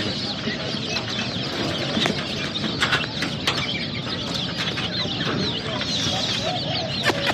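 Many baby chicks peeping at once in a continuous high chorus of short chirps, with a few scattered sharp clicks.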